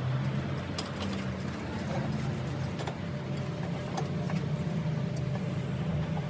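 A machine running with a steady low hum, with a few light clicks and knocks scattered through it.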